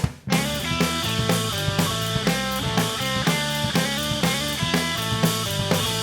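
Rock music: a drum kit and electric guitar come in after a loud drum hit and play on in a steady, even beat.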